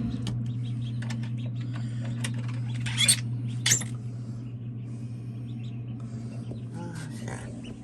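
Faint peeping of newly hatched ducklings over a steady low hum, with small handling clicks and two brief louder scraping rustles about three seconds in.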